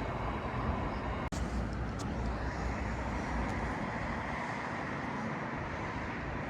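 A train running at the platform, giving a steady low rumble of engine and wheels.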